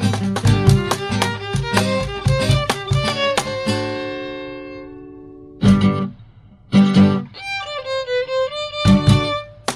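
Instrumental break of a pop song with violin and guitar. A quick strummed beat ends about three seconds in on a chord that rings out and fades. Then come loud accented band hits about a second apart, with a violin-like melody sliding between notes.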